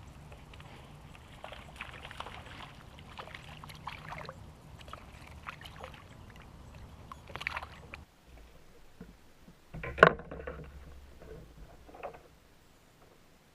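Water sloshing and small irregular splashes and knocks around a kayak, with one sharp, loud knock or splash about ten seconds in.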